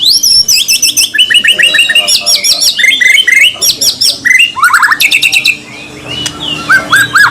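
White-rumped shama (murai batu) singing a harsh, aggressive 'besetan' song: fast strings of sharp repeated chirps and whistled notes. There is a brief quieter gap about six seconds in.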